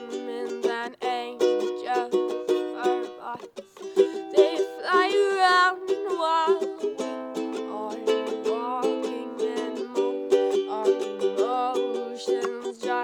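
Ukulele played in a quick run of plucked and strummed chords. A wavering, voice-like note rises over it about five seconds in, and a shorter one near the end.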